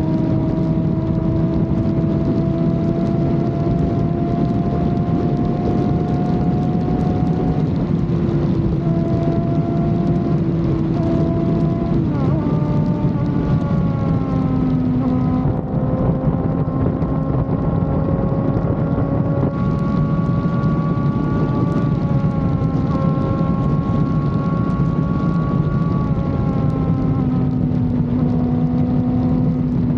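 A vehicle engine running steadily under way, its pitch slowly climbing, then falling about halfway through and again near the end, with wind rushing over the microphone.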